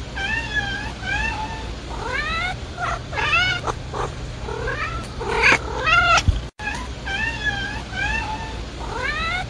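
Kittens meowing over and over: a rapid run of high, thin calls, several of them rising sharply in pitch and some overlapping. A steady low hum sits underneath, and the sound drops out for a moment about two-thirds of the way through.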